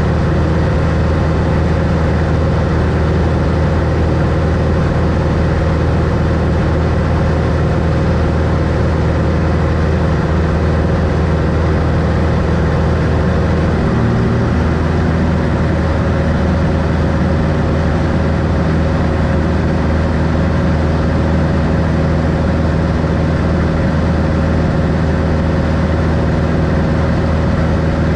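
1964 Cessna 182 Skylane's six-cylinder engine and propeller running steadily, with a slight shift in pitch about halfway through.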